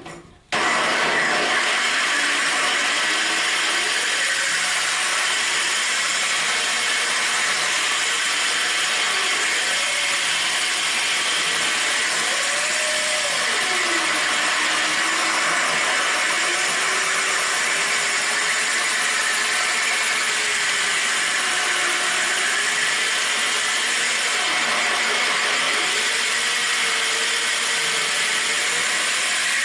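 Corded electric drill running a diamond-coated bit that grinds into porcelain tile: a steady, loud grinding hiss. The motor's pitch wavers up and down as trigger speed and load change. It starts about half a second in.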